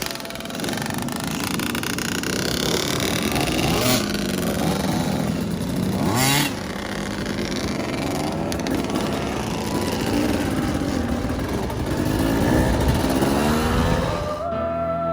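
Dirt bike engine running, its pitch rising and falling as it revs up and down, with rushing noise over it. About fourteen and a half seconds in it cuts to music.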